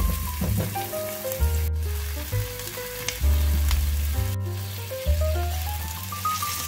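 Diced onion and tomato sizzling in oil in a nonstick frying pan as a silicone spatula stirs them. The sizzle cuts out for an instant twice. Light instrumental background music with a simple stepping melody and bass notes plays over it.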